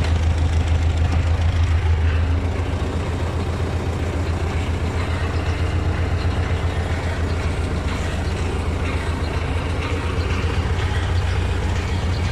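T-40 tractor's air-cooled diesel engine running steadily with a low, fast, even beat, easing slightly about two seconds in.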